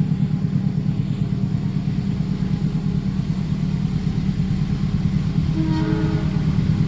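A train running past with a loud, steady low rumble. Near the end, a held chord of steady tones comes in over it.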